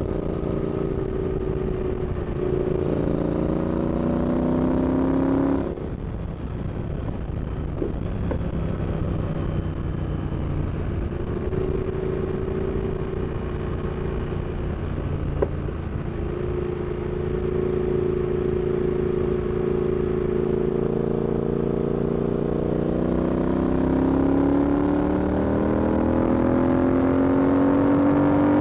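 Triumph Speed Twin 1200 parallel-twin motorcycle under way, the engine pulling up in revs for a few seconds, then dropping sharply when the throttle is rolled off. It runs steadily for a while, then makes a long, gradual climb in revs that cuts off near the end. A single sharp click is heard partway through.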